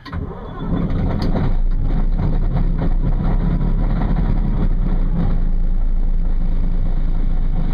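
Heavy-equipment diesel engine started in sub-zero cold: it catches within about a second and then runs steadily. A cold start that fires right up, its oil pan kept warm overnight by a pan heater.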